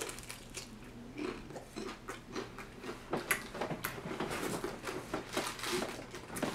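A person biting into and chewing a fried chicken wing coated in crushed Flamin' Hot Doritos chips, with many short, irregular crunches and wet mouth sounds.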